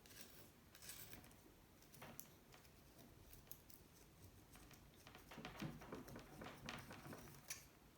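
Faint scattered clicks and light scraping as hands and tools work at the motorcycle's engine cases.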